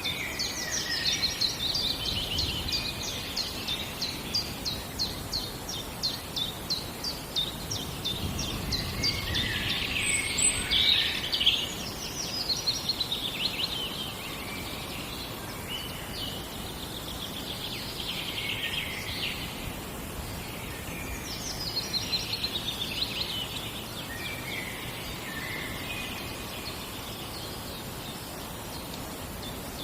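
Songbirds singing in a forest: a fast run of short repeated notes for the first seven seconds or so, then separate song phrases every few seconds, over a steady low background noise.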